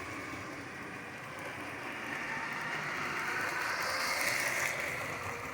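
Motorized Lego City toy trains running on plastic track: a steady whirring clatter that grows louder toward about four seconds in, then eases off a little.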